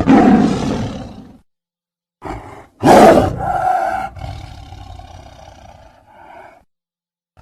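Tiger roaring in separate spliced calls with dead silence between them. One roar fades out in the first second and a half. After a gap comes a short grunt, then the loudest roar about three seconds in, which trails off in a long falling tail until about six and a half seconds.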